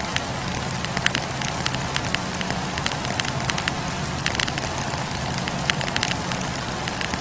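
Wood campfire crackling, with many irregular sharp snaps and pops over a steady low rumble of flame.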